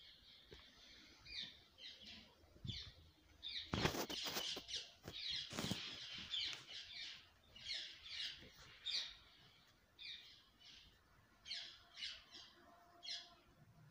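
Small birds chirping, short quick calls repeated again and again, with two sharp claps of wings, about four and six seconds in.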